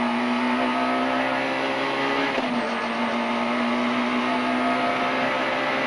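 Peugeot 106 Rallye's 1.3-litre four-cylinder engine running steadily under way at a nearly constant pitch, dipping briefly about two and a half seconds in, over a steady rushing noise.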